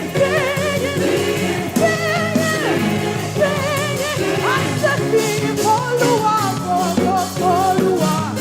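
Live gospel praise music: sung voices with a wavering vibrato over a band with sustained low notes and drum strikes.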